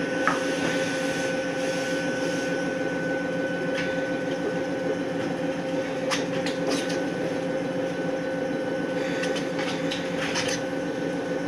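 Electric railcar standing at a station with its doors open: its onboard equipment gives a steady electrical hum with a high whine running through it, and a few scattered clicks and knocks.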